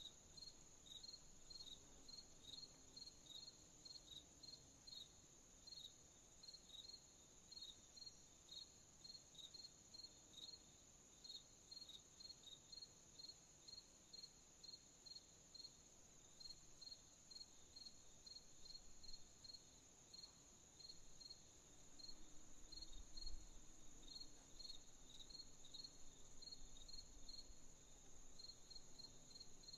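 Crickets chirping faintly in an even pulse, about two chirps a second, over a continuous high insect trill. A low rumble swells briefly about two-thirds of the way through.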